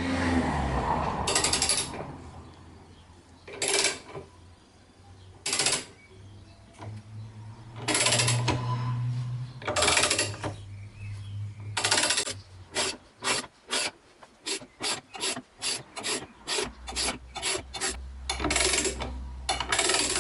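Ratchet wrench clicking in strokes as it turns a bearing puller's centre bolt, drawing the rear bearing off a Toyota T50 gearbox mainshaft. A few longer strokes come first, then a fast run of short strokes about three a second, with longer strokes again near the end.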